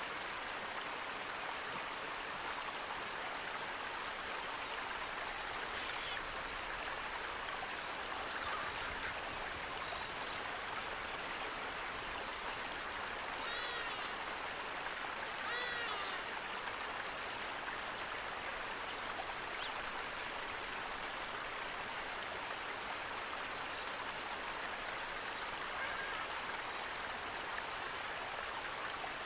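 Steady rushing of running water, even and unbroken, with a few short bird calls about halfway through.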